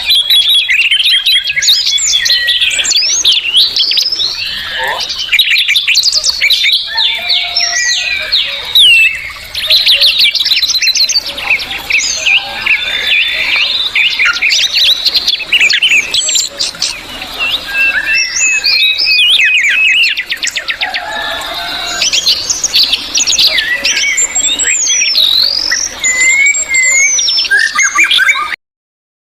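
Songbirds chirping and singing, many quick overlapping calls and whistles, until the sound cuts off suddenly near the end.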